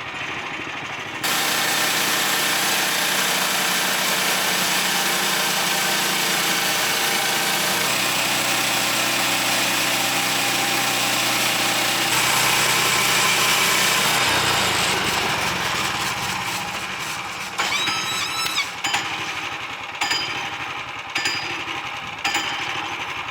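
Woodland Mills HM126 band sawmill cutting through a white pine log: about a second in, the engine note and a loud, steady cutting noise jump up as the blade takes the cut. The cut finishes around fourteen seconds and the noise fades, leaving the engine running lower, with a few sharp knocks and a brief squeal near the end.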